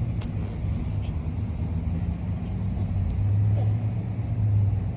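Low, steady rumble of a car moving slowly, growing louder for a second or so about three seconds in.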